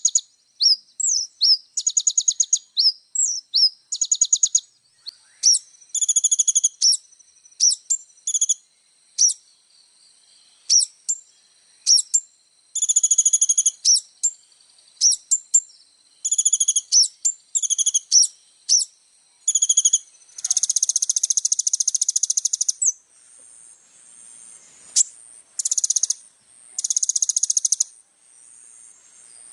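Kolibri ninja (olive-backed sunbird) singing a fast, varied song: high chirps and rapid twittering trills. About two-thirds of the way through come longer buzzy rattles lasting a second or two.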